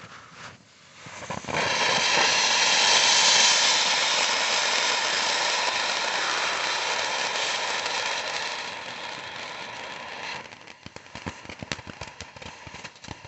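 Consumer firework fountain lit and spraying sparks with a loud, steady hiss that builds about a second and a half in and slowly fades. Near the end it turns into a run of sharp crackling pops as the fountain finishes.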